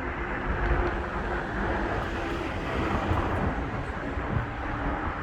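Steady rumble and hiss of road traffic passing over a bridge, with wind buffeting the microphone.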